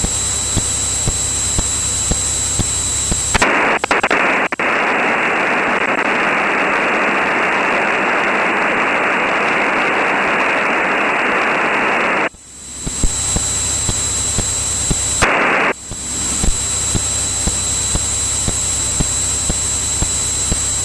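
Steady single-engine Cirrus piston aircraft drone over the headset audio. From about three seconds in to about twelve seconds in, it gives way to an open radio channel's even static hiss, with another half-second burst of static about fifteen seconds in.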